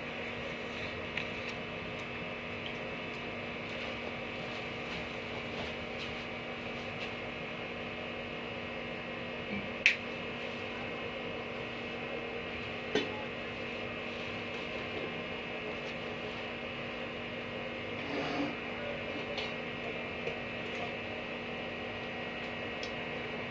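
Electric fan running with a steady hum. A few sharp clicks or knocks sound over it, the loudest about ten seconds in.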